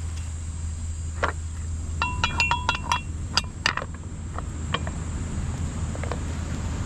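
A quick run of light clinks and taps, hard objects knocking together with a short ring, about two seconds in. A few scattered taps follow, over a steady low hum and a thin high insect drone.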